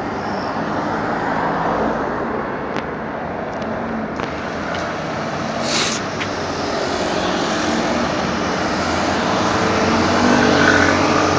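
Fire truck's engine running steadily, growing slightly louder toward the end, with a brief hiss about six seconds in.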